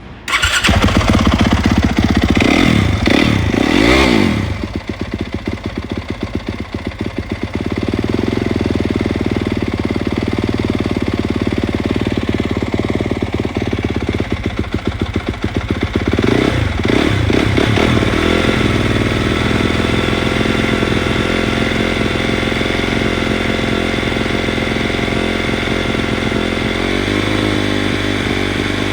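Yamaha YZ250F's 250 cc four-stroke single-cylinder engine starting, revved up and down a couple of times in the first few seconds, then idling steadily, with one short blip of the throttle about halfway through.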